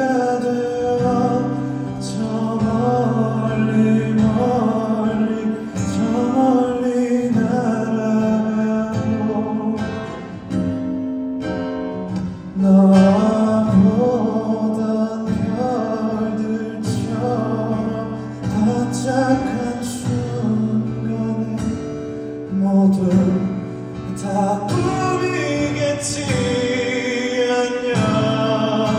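Live pop song: a male vocalist singing over instrumental accompaniment.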